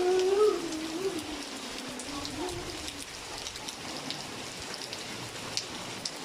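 Steady rain falling on water and hard surfaces, with scattered sharp drop ticks. A person's drawn-out voice is heard in the first three seconds, falling in pitch.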